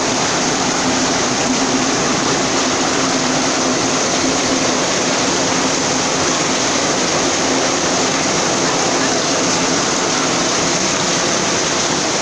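Heavy rain and storm runoff water rushing through a flooded street, a loud, steady rush of water.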